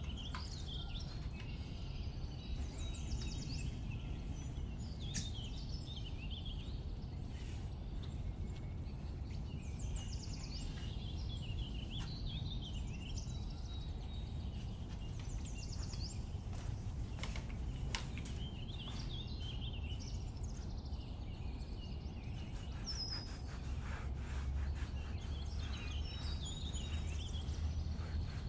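Birds chirping and singing in short, scattered phrases over a steady low background rumble, with a few sharp clicks and a quick run of ticks near the end.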